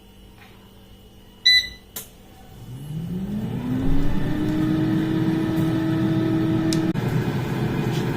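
Havells air fryer beeping once as it starts, a click, then its fan spinning up in a rising whine that settles into a steady whir.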